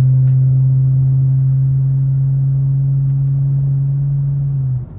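A car's engine and exhaust droning at a steady cruise, heard from inside the cabin: one low, unwavering tone that cuts off abruptly shortly before the end.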